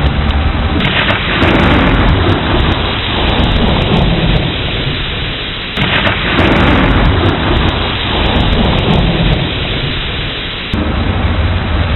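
Thunderstorm: steady heavy rain with two rolls of thunder, one about a second in and one about halfway through, each breaking suddenly and dying away over several seconds.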